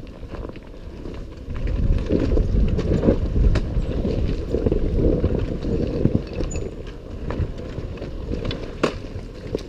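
A runner's footsteps on a forest trail, soft thuds about twice a second over a low rumble, heaviest through the middle of the stretch, with a few sharp clicks near the end.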